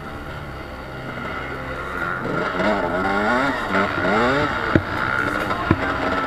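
KTM EXC 300 two-stroke enduro engine revving up and down several times as the bike is ridden hard, with two sharp knocks near the end. A music bass line plays underneath at first.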